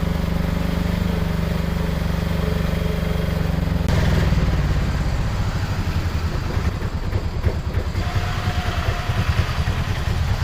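A vehicle running: a steady low engine hum that changes about four seconds in to an uneven, fluttering low rumble.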